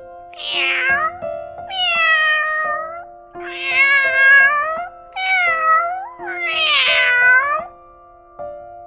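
Domestic cat meowing five times in a row, each meow about a second long, over a soft background music bed.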